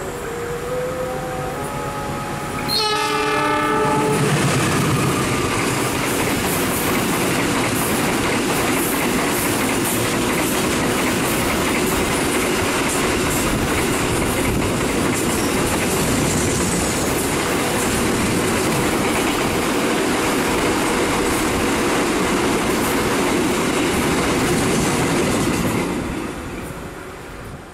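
Oncoming train sounding its horn for the first few seconds. It then runs past close by on the adjacent track: a loud, steady rush of wheels on rail with clickety-clack from the rail joints, lasting over twenty seconds. It fades away near the end.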